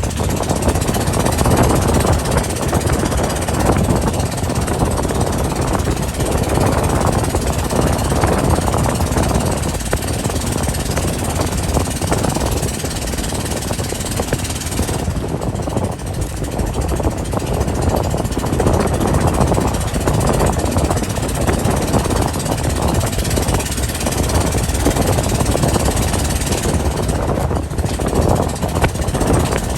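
Motorboat under way: a loud, steady mix of engine and water noise with a rapid rattling pulse.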